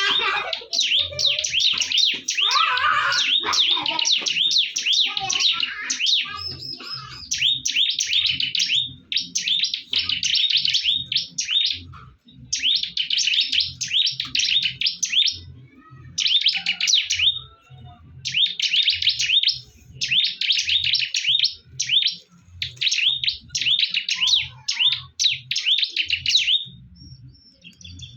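Ciblek birds (bar-winged prinias) singing against each other in fast, shrill chirping phrases a second or two long, with short breaks between them.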